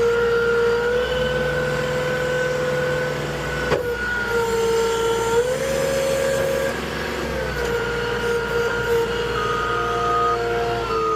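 Moffett truck-mounted forklift running, its engine and hydraulics giving a steady whine that shifts in pitch around the middle. A sharp click comes about four seconds in, and higher beeping tones come in near the end.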